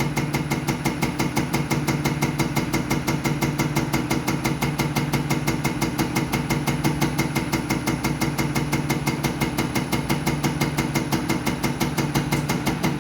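Diesel unit pump (Bosch 0414799005, Mercedes Actros) running on a test bench: a steady drive hum with rapid, even pulsing from the pump's strokes.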